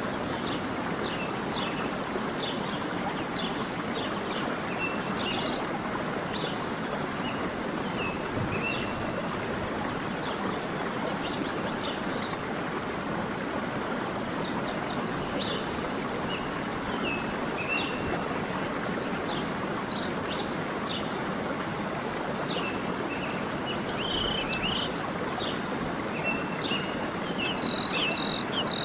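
A stream running steadily, with birds chirping over it: many short chirps throughout and a louder falling call repeated three times, about seven seconds apart.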